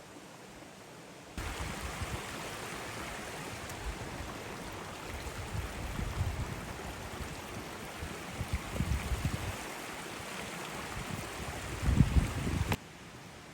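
Rushing water of a mountain river or stream, a steady hiss that cuts in about a second in and cuts out suddenly near the end, with irregular low bumps that are strongest just before it stops.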